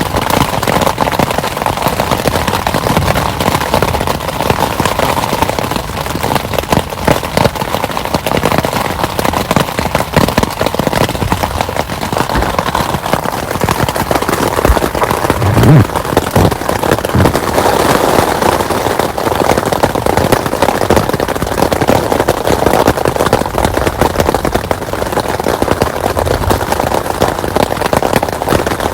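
Heavy rain pouring down, a dense crackling patter of drops. A brief low thump about halfway through is the loudest moment.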